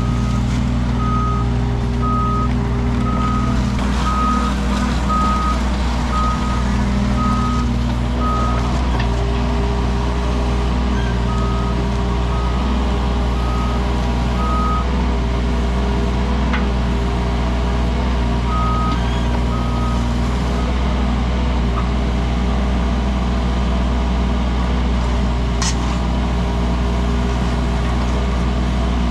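Wacker Neuson mini excavator's diesel engine running steadily under work. Its travel alarm beeps about once a second in three short spells while the machine moves on its tracks.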